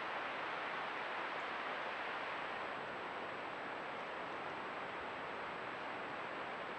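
Steady, even hiss with a faint high whine above it and no distinct sounds, typical of a trail camera's own recording noise.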